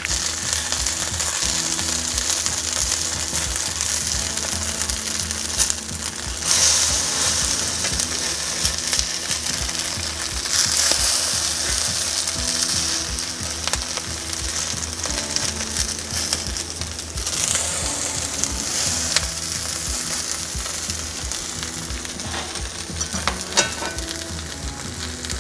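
Cornbread patties sizzling as they fry in hot butter in a cast-iron skillet. The sizzle swells louder about six seconds in and again near seventeen seconds, as the patties are turned over with a spatula.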